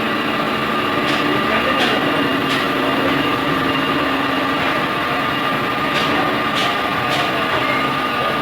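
Crankshaft grinding machine running steadily, a constant mechanical hum with a thin high tone over it, and a few faint ticks or clicks along the way.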